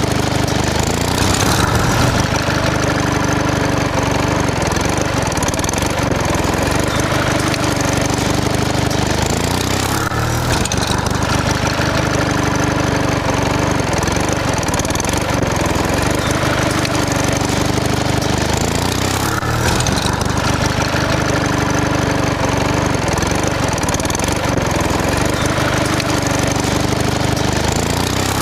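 A small engine running steadily. A short rise and fall in pitch recurs about every nine seconds, in an even repeating cycle.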